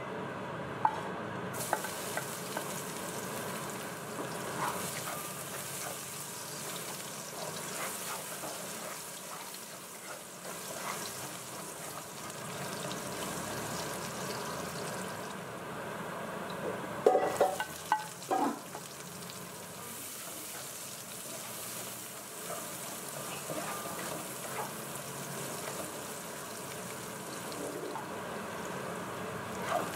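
Chopped garlic and onion sizzling in hot oil in a stainless steel wok, stirred with a spatula that scrapes and clicks against the pan. There is a steady hiss throughout, with a few louder knocks about halfway through.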